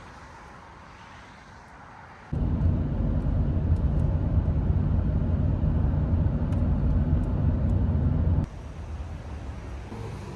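A loud, steady low mechanical rumble that starts abruptly about two seconds in and cuts off abruptly about six seconds later.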